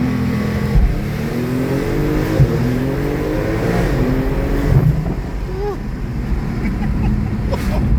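Twin-turbo Porsche 911's flat-six accelerating hard, heard from inside the cabin: the engine note climbs steadily for about five seconds, then drops at a gear change and pulls on.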